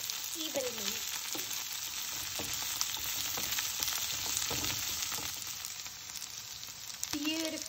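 Cut okra sizzling as it fries in hot olive oil in a pan. A wooden spatula stirring it gives occasional scrapes and taps over the steady hiss.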